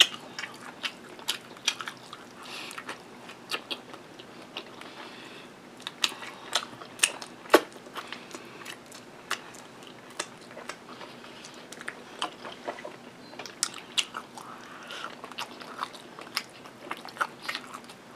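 A person biting and chewing barbecue rib meat, with sharp mouth clicks coming irregularly throughout, the loudest about seven and a half seconds in.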